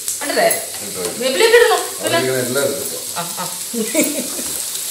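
Spice masala sizzling in a hot pan while it is stirred, with people talking over it.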